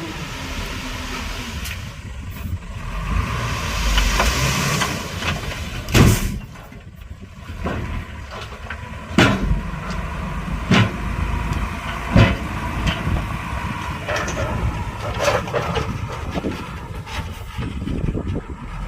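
Heavy diesel earthmoving machinery running steadily under load, with five sharp knocks a second or two apart through the middle.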